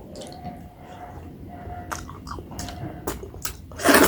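Wet mouth sounds of a person eating soft maize dhido with nettle curry by hand: chewing and lip smacks as a run of short clicks. A short, loud noisy burst comes near the end.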